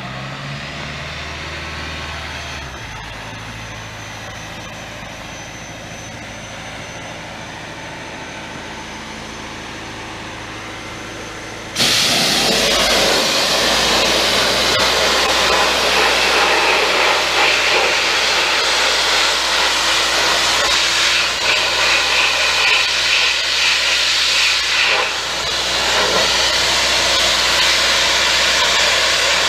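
A machine runs steadily with a low hum, then about twelve seconds in a loud hiss cuts in suddenly as the sandblasting gun opens up, and it goes on blasting abrasive onto the truck frame in a steady rush.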